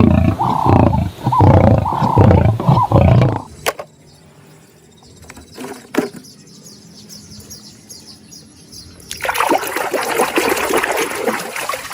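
A lion roaring in a run of loud pulsing roars for the first few seconds, then after a quiet stretch, water running with a steady hiss from about nine seconds in.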